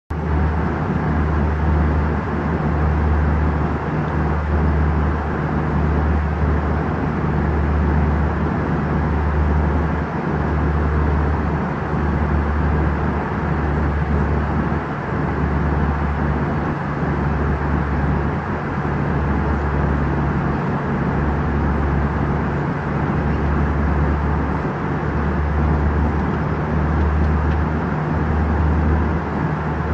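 Steady roar of an airliner cabin in flight, engine and airflow noise with a deep low hum that wavers every second or two.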